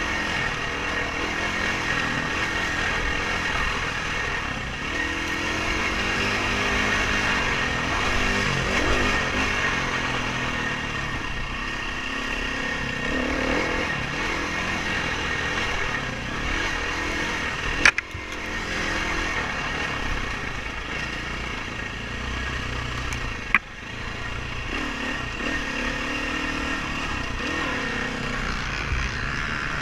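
Dirt bike engine running as the bike is ridden, revving up and down with the throttle. Two sharp clicks cut in, one a little past the middle and one about four-fifths through.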